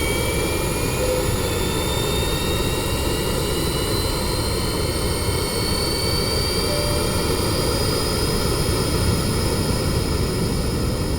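DJI Mavic Air quadcopter drone's propellers: a steady rushing noise with a high whine that slowly rises in pitch as the drone flies.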